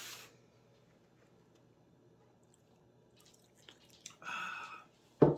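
Quiet room with a few faint clicks, then a short high-pitched squeak and a sharp thump near the end, as takeout food containers are handled and set down on a table.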